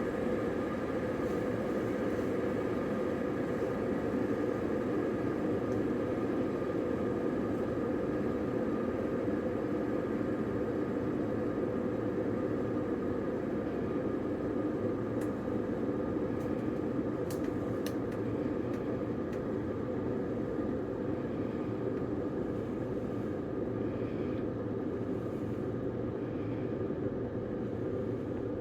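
Electric kettle heating water: a steady hiss and rumble with faint ticks about halfway through.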